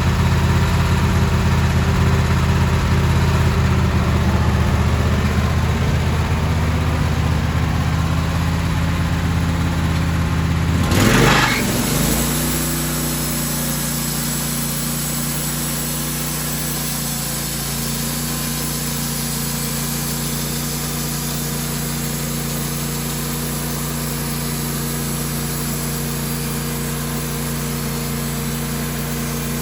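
An engine idling steadily. About eleven seconds in, its sound changes abruptly with a brief louder surge, and a lower, quieter engine idle carries on after it.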